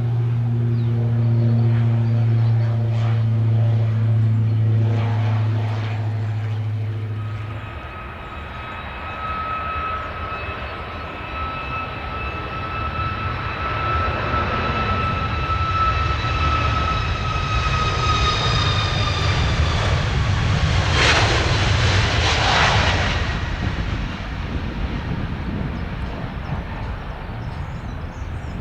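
Boeing C-17 Globemaster III's four Pratt & Whitney F117 turbofans on landing approach. A high jet whine grows louder and slowly drops in pitch, swells to a loud rush about three-quarters of the way in as the aircraft passes, then fades into a low rumble. A steady low drone fills the first seven seconds or so before the whine comes in.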